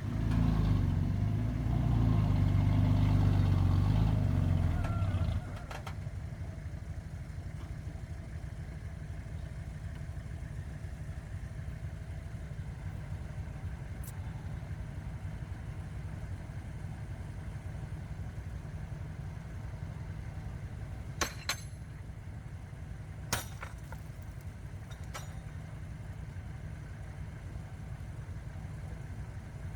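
Diesel engine of a heavy earthmoving machine working loudly for about five seconds, then dropping to a steady low idle. A few sharp clicks or clanks near the end.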